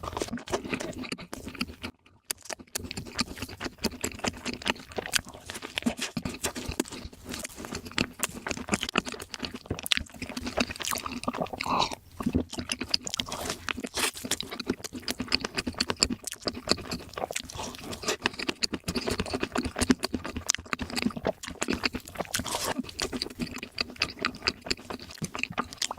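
Close-miked eating sounds: food being chewed and crunched, a dense run of wet clicks and crackles.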